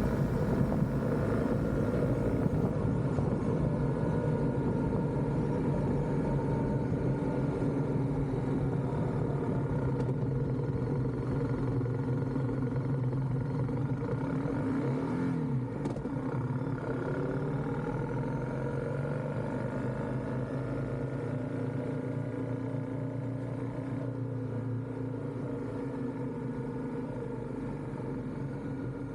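Motorcycle engine running steadily while riding, its pitch dipping and then rising again about halfway through as engine speed drops and picks up. The sound slowly grows quieter toward the end.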